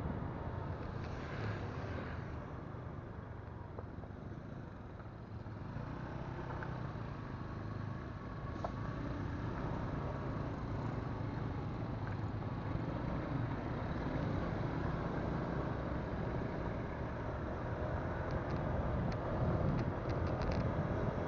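Motorcycle engine and road noise while riding, picked up by a phone's microphone. The sound eases off a few seconds in, then builds steadily again.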